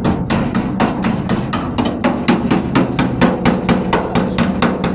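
Autobody pick hammer rapidly tapping along the sheet-steel wheel arch of a pickup bed, about five or six sharp strikes a second. The tapping is to find rust: weakened metal is where the pick pokes through.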